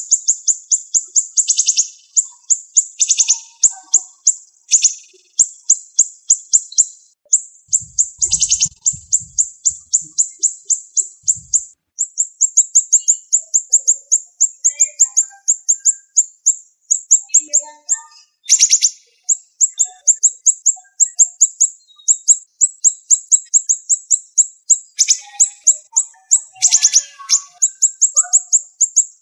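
Siri-siri songbird singing long runs of rapid, closely spaced high-pitched notes, broken every few seconds by a louder, sharper call.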